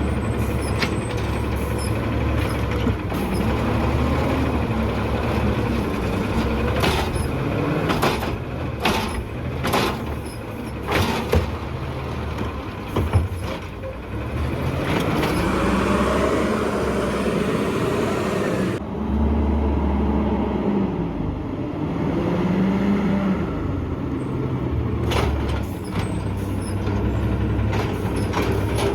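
Garbage truck engine running, revving up and down several times as it works its pickup, with a run of sharp clanks and knocks from the bins and lifting gear in the middle.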